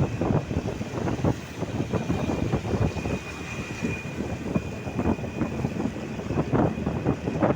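Low, uneven rumble of city traffic with gusts of wind buffeting the microphone, over a faint steady high whine.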